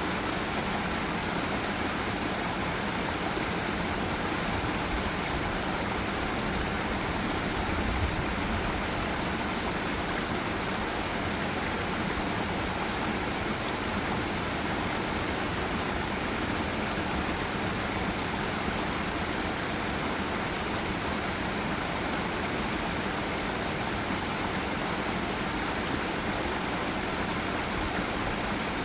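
Forest stream and small waterfall: water rushing over rocks in a steady, even wash of noise.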